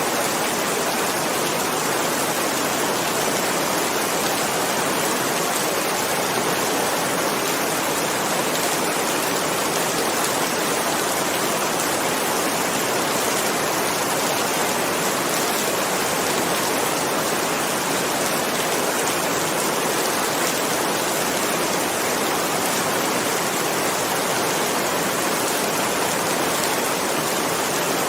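Heavy rain falling steadily, an even rushing hiss that never changes in level.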